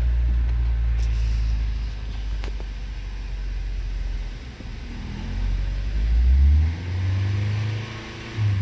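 The 2015 Kia Forte's 2.0-litre four-cylinder engine running just after starting. It settles into a steady idle, then is revved up twice in the second half, the pitch rising and dropping back.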